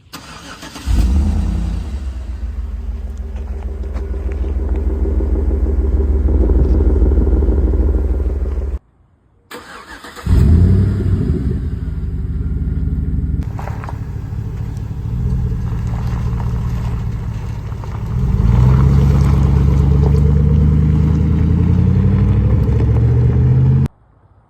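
2012 Chevrolet Tahoe's V8 running loud through an exhaust with the muffler and resonator deleted. It comes in abruptly, breaks off about nine seconds in, returns a second and a half later, and rises in engine speed toward the end.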